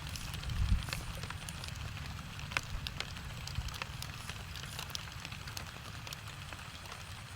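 Rain falling, with scattered sharp taps of drops over a steady low rumble.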